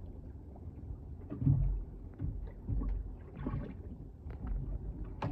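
Low rumble and irregular knocks of a boat on the water, swelling loudest about a second and a half in, with a few faint light clicks.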